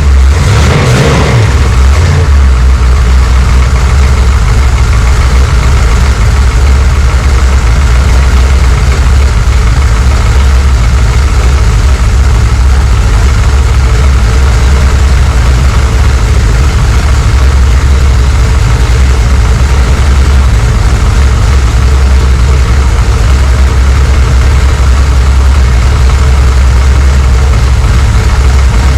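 Small-block Chevrolet 406 V8 idling steadily while it warms up.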